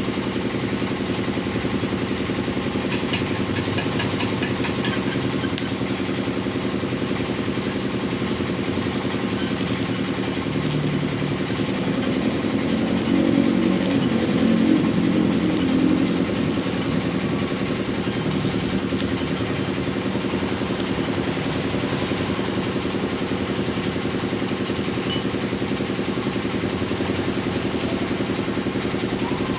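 Suzuki Futura van engine idling through a freshly welded exhaust, with one brief rise in revs about halfway through before it settles back to idle.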